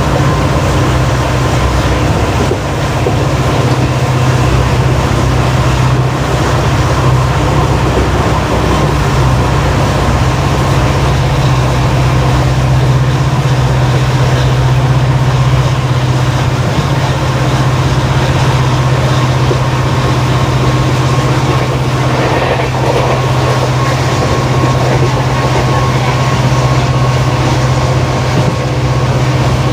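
WDP4D diesel locomotive's EMD 16-cylinder two-stroke engine humming at a steady, unchanging note, under the steady running noise of the moving train.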